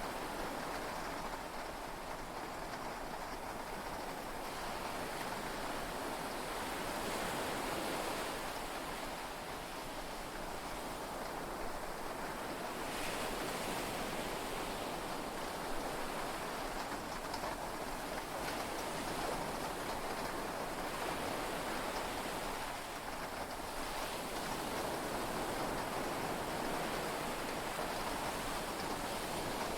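Heavy rain and sea waves heard from inside a yacht's cabin: a steady rushing wash that rises and falls gently every few seconds.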